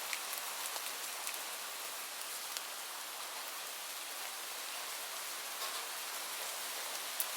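Steady rain falling: an even hiss with scattered sharper drip ticks, one of the strongest near the end.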